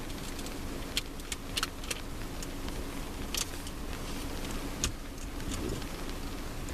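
Steady hiss of thunderstorm rain with a faint low hum, broken by about half a dozen sharp clicks or taps in the first five seconds.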